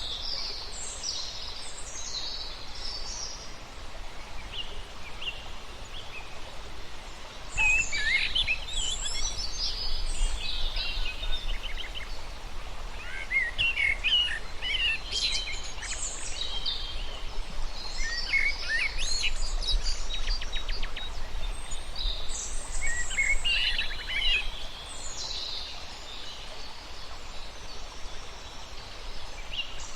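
Several birds singing and chirping in quick, overlapping phrases over a steady background hiss, with the calls busier from about a quarter of the way in.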